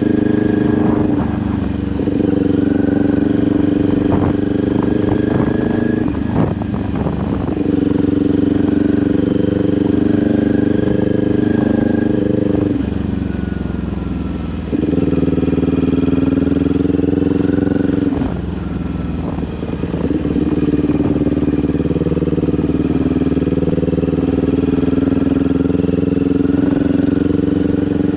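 Kawasaki Ninja 400 parallel-twin engine running through an SC-Project aftermarket exhaust while riding at a steady throttle. The note drops away briefly a few times, about 6 s, 13 s and 18 s in, as the throttle is eased off, and picks straight back up each time.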